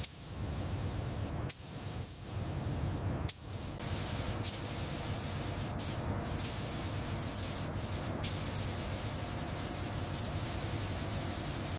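Steady spraying hiss with a low hum beneath it, broken by several abrupt cuts between short clips.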